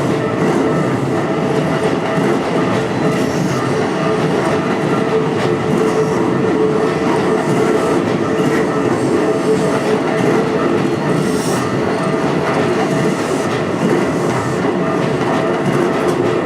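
Keikyu electric train passing, wheels on the rails making a loud, steady rumble with a few steady tones over it.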